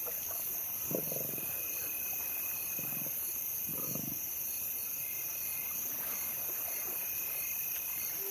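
Lions growling low over a kill, three short growls in the first half, against a steady trilling of night insects such as crickets.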